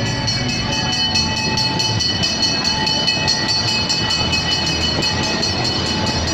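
Small ride train running along its track, with a rapid even clicking of about five a second over a steady mechanical hum and whine.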